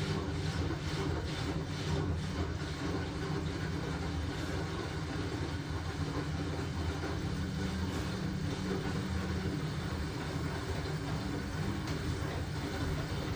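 LG washing machine running mid-cycle, a steady low hum from the motor and drum.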